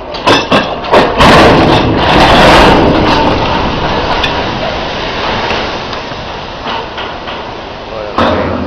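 Crane with faulty rigging giving way: three sharp bangs, then a long, loud crash that slowly fades over several seconds, and another bang near the end.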